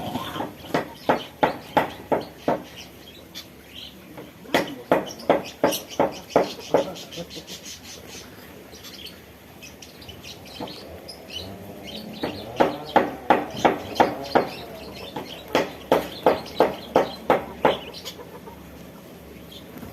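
An aviary bird calling in four loud runs of quickly repeated notes, about three or four a second, with faint high chirping between the runs.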